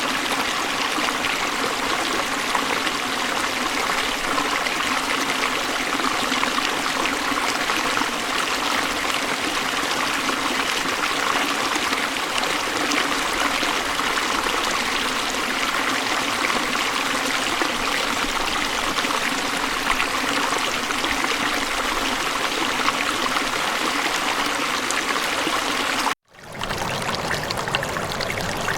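A stream of water flowing steadily. Near the end it cuts out to silence for a moment, then resumes.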